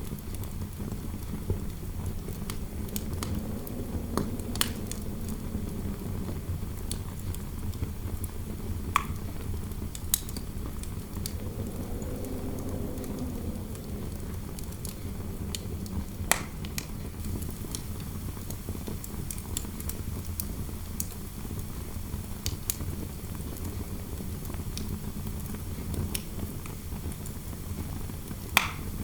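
Wood fire in a fireplace crackling, with scattered sharp pops, over a steady low interior wind rumble that swells into a soft howl twice.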